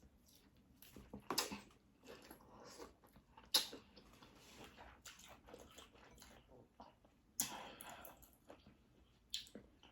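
Close-miked chewing and eating of seafood boil, with a few short, louder crackles and smacks between softer mouth sounds.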